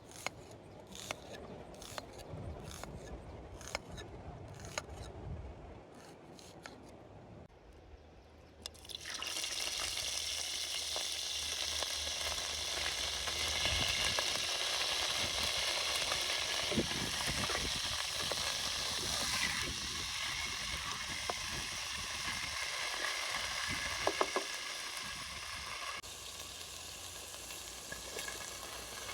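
Light taps and clicks, then about nine seconds in a loud, steady sizzling starts as food goes into hot oil for Uzbek pilaf and keeps frying, with a few utensil clicks.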